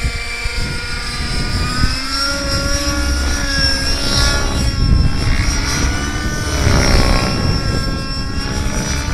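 Engine-powered radio-controlled model helicopter flying, its engine and rotor sound running steadily with the pitch rising and falling several times.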